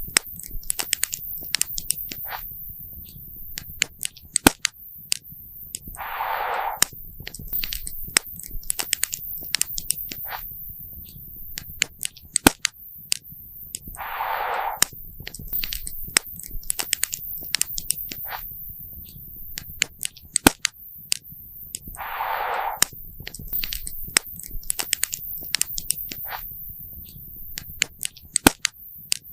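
Wood campfire crackling, with frequent sharp pops and snaps at irregular intervals. A short rushing hiss rises and fades three times, about every eight seconds.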